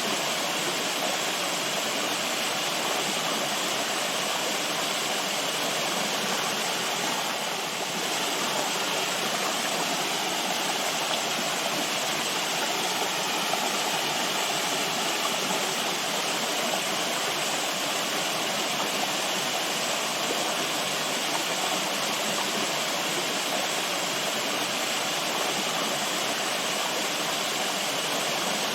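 Flowing water rushing steadily, a continuous even wash of sound.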